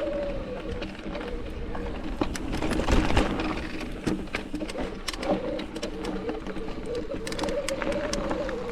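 Mountain bike rolling over rocky singletrack: a steady tyre hum with frequent clicks and rattles from the chain and frame over the rocks, and a wavering tone drifting over it.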